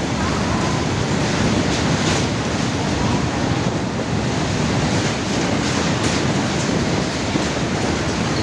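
Express train running at speed: a steady rushing roar of wheels on rails, with no letup.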